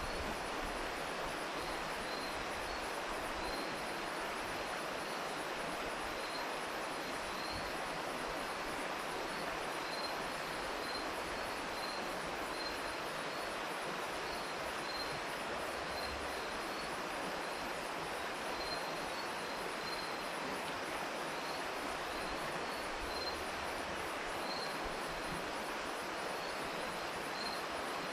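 River water flowing in a steady, even rush, with crickets chirping in short repeated pulses over it.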